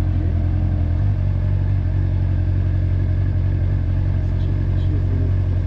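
Honda motorcycle engine running steadily on the move, a low even hum with a slight rise in pitch about a second in.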